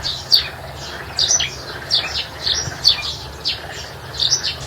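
Bird chirping: short, high calls repeated about every half second.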